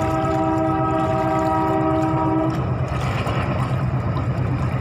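Train horn sounding one long, steady blast that stops abruptly about halfway through, over a steady low rumble.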